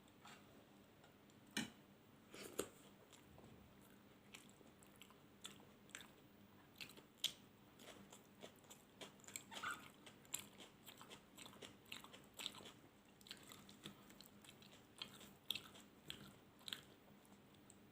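Close-miked eating sounds: two sharper bites about one and a half and two and a half seconds in, then chewing with a dense run of small clicks for the rest.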